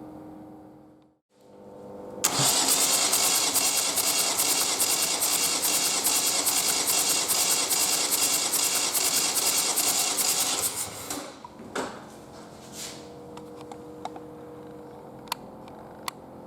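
Ford Focus II 1.6 TDCi (G8DA) four-cylinder diesel engine running with a dense, rhythmic clatter. It starts abruptly about two seconds in and stops about eleven seconds in, followed by a few light clicks.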